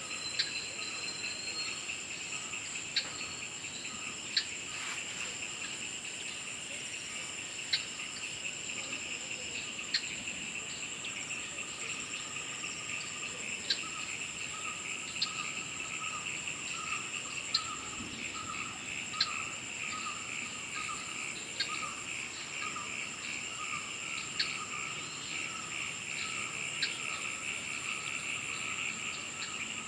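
Chorus of insects: steady high trilling tones with a pulsing lower trill underneath, and short sharp clicks every second or two.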